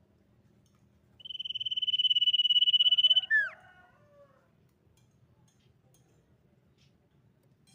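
Common iora calling: one long, rapidly pulsed whistle held on a single pitch for about two seconds, ending in a short falling note.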